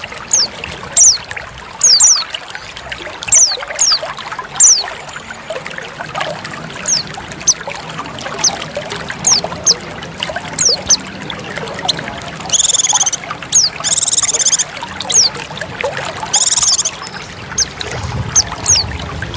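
White-eye (pleci) calls: many short, high, downward-slurred chirps in quick succession, with a few buzzy trilled phrases in the middle, over steady trickling water. It is the female pleci call, used to lure males.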